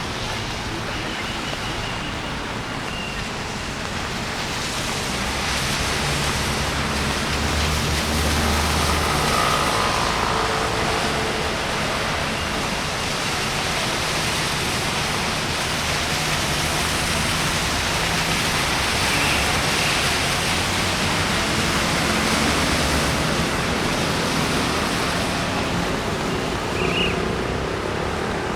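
Steady hiss of rain on a city street, with traffic passing; it grows a little louder a few seconds in, with a low vehicle rumble for a few seconds.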